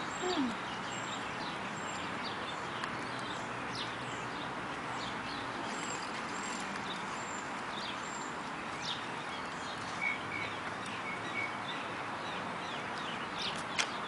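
Birds chirping in short high calls, many of them quick falling chirps along with a thin high note repeated every second or so, over a steady outdoor background hiss.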